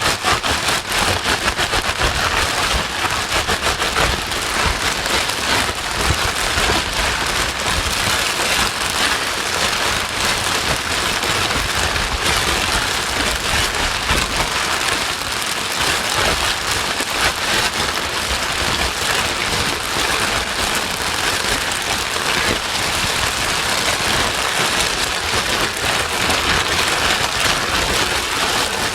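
Continuous white noise for soothing a crying baby: an even, steady hiss with a fine, dense grain, like heavy rain.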